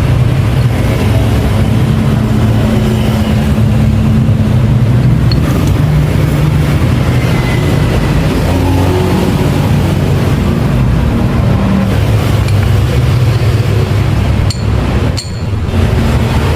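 A motor vehicle engine running steadily, with its low hum shifting slightly in pitch and a brief dip in level near the end.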